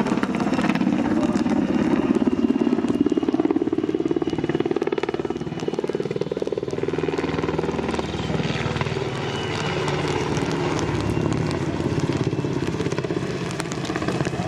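Military search-and-rescue helicopter flying a display pass: rapid rotor chop over turbine engine noise, loudest a few seconds in and shifting in pitch as it passes.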